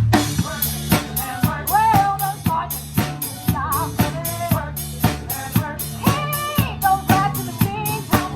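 Drum kit playing a steady beat with bass drum, snare and rimshots, up front in the mix over a live band's bass and held melody lines. The drums come back in with a hit right at the start after a brief break.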